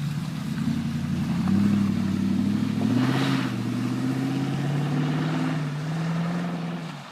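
Toyota Tundra pickup's exhaust as the engine is revved: the note climbs about a second and a half in and again around three seconds, with a brief rasp at the peak, then settles back to a lower drone and fades near the end.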